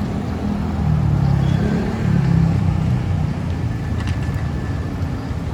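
Motor traffic running close by in a congested street: a steady low engine rumble from the vehicles around.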